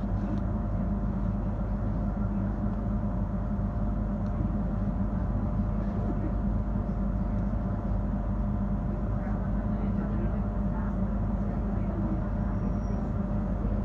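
Electric commuter train on Lisbon's Cascais line running along the track, heard from inside the carriage: a steady rumble with a constant motor hum.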